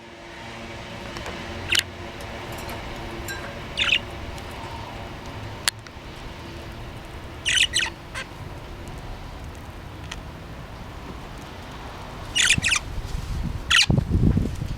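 Budgerigar giving short, high chirps and squawks every few seconds, some in quick clusters of two or three, over a steady background hum. There is a sharp click a little before halfway and a burst of low thumping or rustling near the end.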